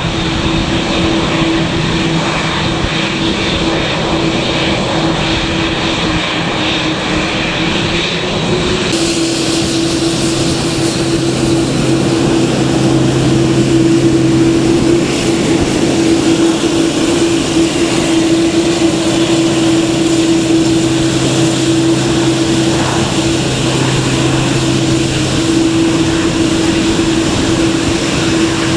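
Aircraft engines running steadily with a constant droning tone over a wash of engine noise. The sound changes abruptly about nine seconds in and carries on.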